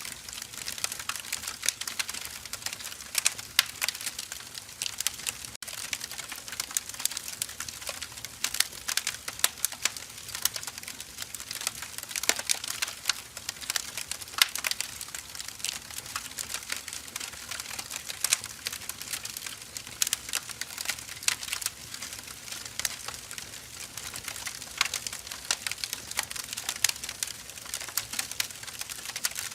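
Firewood burning in a fire, crackling: a dense, irregular stream of sharp pops and snaps that never lets up.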